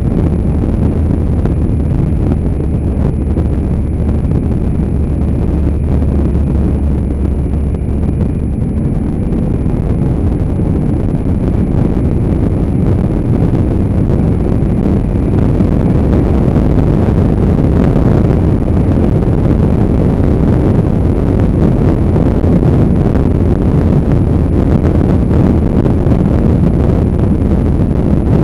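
Wind rushing over the microphone of a moving motorcycle, with the bike's engine running underneath. The rushing grows a little louder about halfway through.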